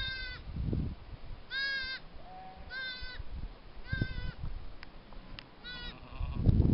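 A young farm animal bleating, a short arched call about five times, roughly a second or more apart, over an uneven low rumble.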